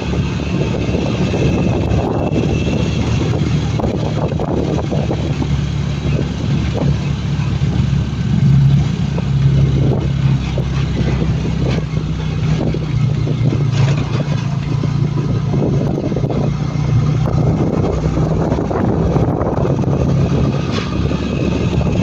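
Motorcycle engine running at a steady, nearly unchanging pitch while riding, with a constant rushing noise over it.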